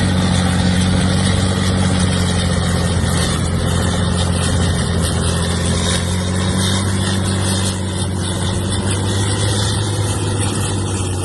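A large engine running steadily at a constant speed, with a deep, even hum.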